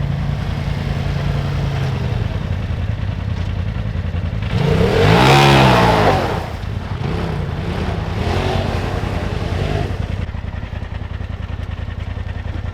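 Polaris RZR side-by-side engine running steadily, revving up and back down loudly about five seconds in, then wavering up and down again briefly a few seconds later.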